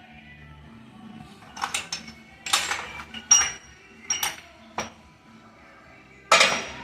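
Steel gearbox parts and tools clinking and knocking together as a manual transmission is taken apart, about six sharp metallic strikes, one of them ringing briefly.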